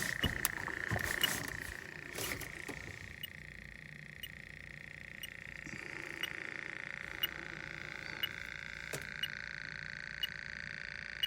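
Fieldpiece DR58 heated-diode refrigerant leak detector ticking about once a second, its slow search rate, over a steady high-pitched hum. A few handling knocks in the first couple of seconds.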